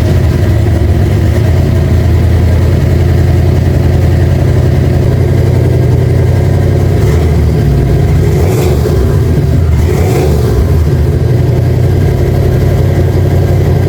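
Turbocharged 351 Windsor V8 running loud and steady through an open downpipe, freshly started, with two short rises in the sound about 8 and 10 seconds in.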